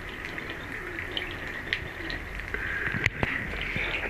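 Water running from a washbasin tap in a steady stream, with irregular small splashes and a sharper click about three seconds in.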